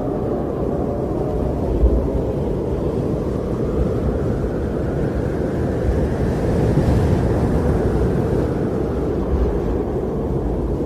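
Winter wind blowing steadily in a deep, rumbling rush, with a gust swelling about two-thirds of the way through.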